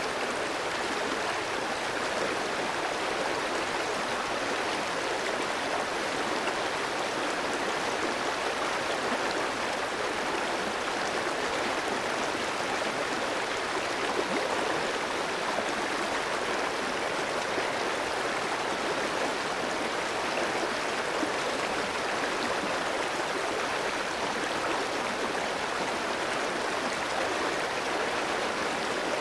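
Clear stream flowing over rocks: a steady, even rush and babble of running water.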